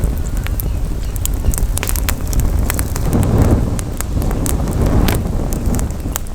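Campfire crackling, with many sharp irregular pops and snaps, over a steady low rumble of wind on the microphone that swells twice.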